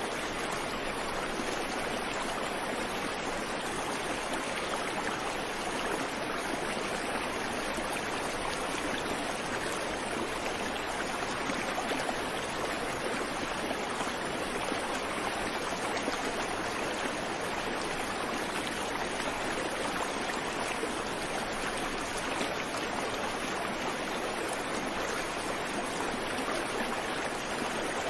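Creek water running over rocks: a steady, even rushing without birds.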